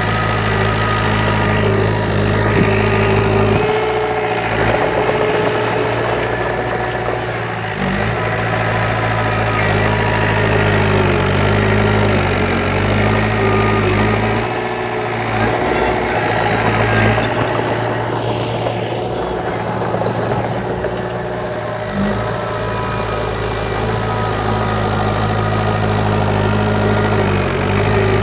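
Heavy diesel engine of an earthmoving machine running continuously, its note shifting several times as the throttle or load changes.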